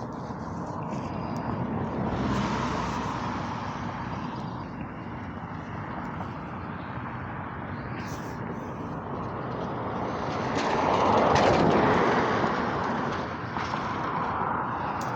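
Outdoor traffic noise: a steady rush of passing vehicles that swells about two seconds in and more loudly around eleven seconds in, each time rising and then fading.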